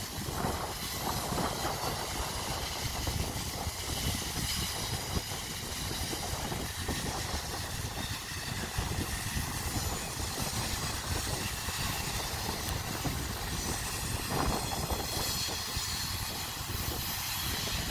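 Double-stack intermodal freight cars rolling past on a curve: a steady rumble with clatter from the wheels on the rail.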